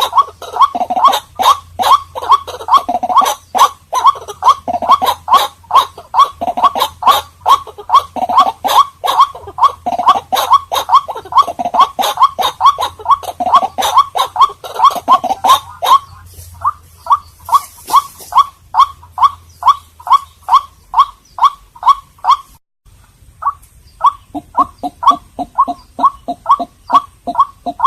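White-breasted waterhen calling: a fast, unbroken run of repeated short harsh calls at about three a second, with a brief break a little past the twenty-second mark.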